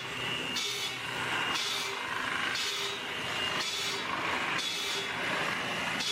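Sawmill machinery cutting wood: a steady rasping saw noise that swells and eases in a regular cycle about once a second.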